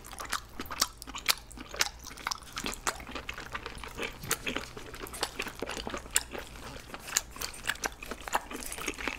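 Mouth chewing braised octopus: a run of irregular wet clicks and crunches, several a second.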